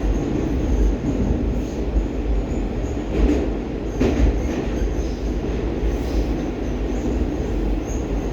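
'Baltiets' metro train running at speed through a tunnel: a steady low rumble of wheels on rail, with two brief harsher flares about three and four seconds in.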